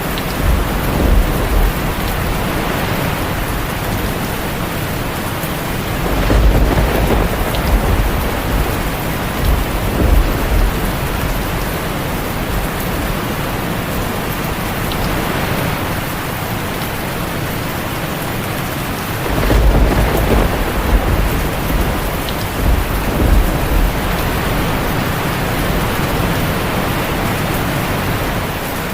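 Heavy rain pattering steadily on a tin roof, with rolling thunder rumbling twice: about six seconds in and again near the twenty-second mark, each rumble building and fading over several seconds.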